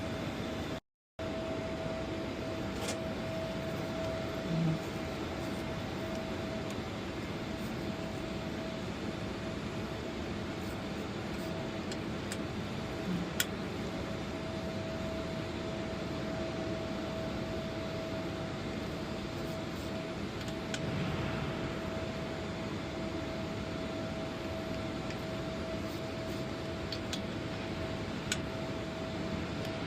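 Steady ventilation or air-handling noise with a constant hum, broken by a couple of faint sharp clicks about halfway through and near the end.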